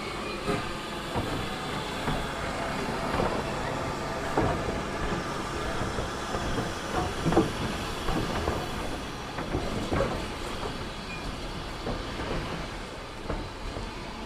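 A train running past, with irregular clicks and knocks from its wheels over rail joints above a steady rumble and hiss.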